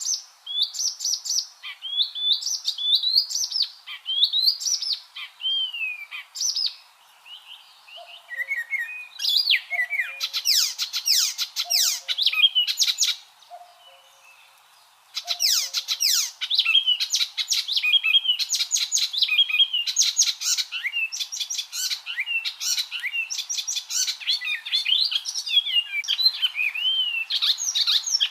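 Icterine warbler singing: a fast, varied stream of chirps, whistles and rapidly repeated notes, broken by two short pauses, about seven and fourteen seconds in.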